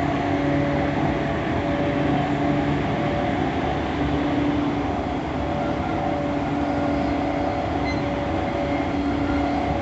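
E231-1000 series electric commuter train running, heard from inside the car: a steady rumble of wheels on track under a level hum of a few held tones from the traction motors.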